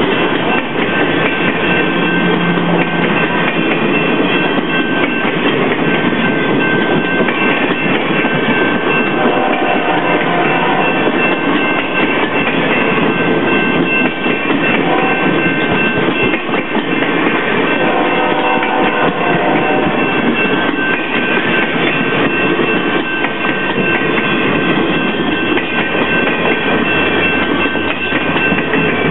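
A train of passenger cars rolling steadily past close by: the loud, continuous rumble and rattle of steel wheels on the rails, with a thin steady high whine in it.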